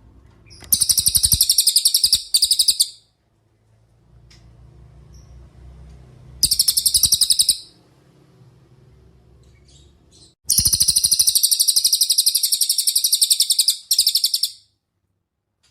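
Cililin songbird singing in rapid, high-pitched trills, in three bursts: two short ones, then a longer one of about four seconds near the end, with low background noise between.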